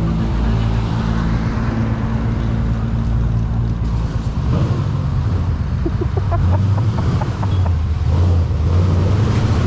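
Motorcycle engine running steadily while riding, its note shifting about halfway through.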